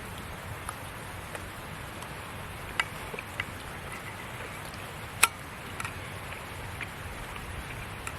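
Wood campfire crackling: a steady low hiss with a handful of sharp pops, the loudest about five seconds in.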